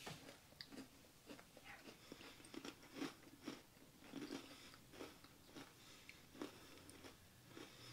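Two people chewing crunchy Oreo chocolate sandwich cookies, eaten dry without milk: faint, irregular crunches.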